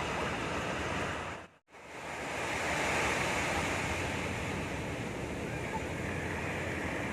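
Sea surf washing and breaking on a beach, a steady rush with some wind on the microphone. The sound cuts out completely for a moment about a second and a half in, then comes back.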